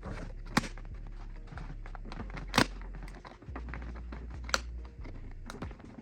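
A series of sharp clicks and knocks, with three loud ones about two seconds apart, over a low steady hum.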